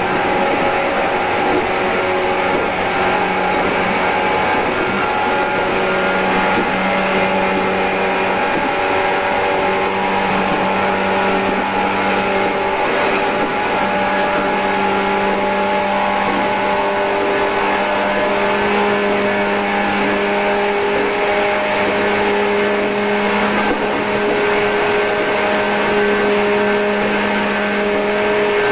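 JR East 113 series electric train running at speed on the Tokaido Line, heard from inside the car. The traction motors and gears give a steady whine that rises slowly in pitch as the train gathers speed, over the rumble of the wheels on the rails.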